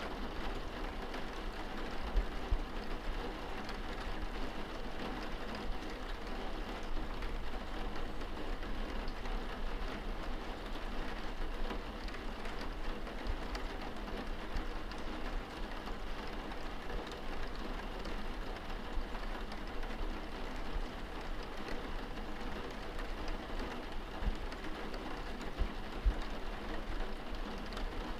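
Steady rain falling on window glass, heard from indoors as an even hiss of drops, with a low rumble underneath.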